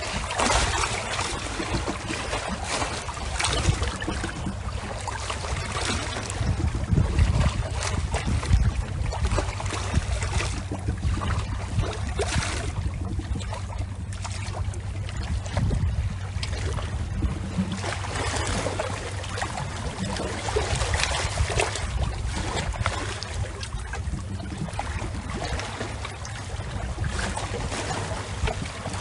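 Water splashing and lapping in irregular surges, with wind on the microphone.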